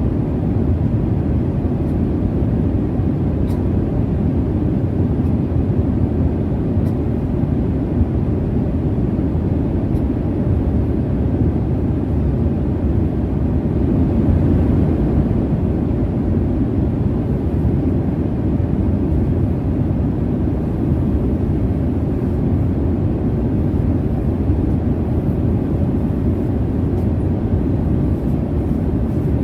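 Jet airliner cabin noise in flight: a steady, deep rumble and rush of engine and airflow, unchanging throughout.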